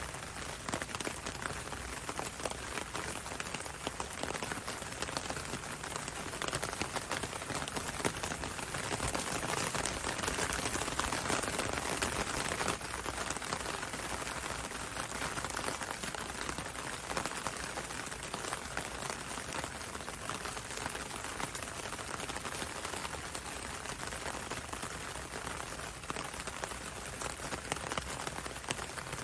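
Steady rain pattering on a window and on a road, a dense hiss of many small drops that swells slightly about a third of the way in.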